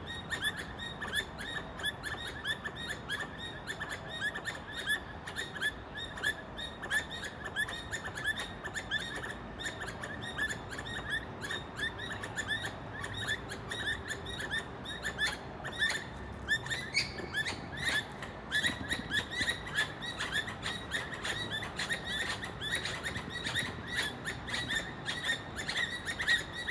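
A squirrel calling with a long series of short, bird-like chirps, repeated evenly several times a second; the chirps briefly turn higher about two-thirds of the way through.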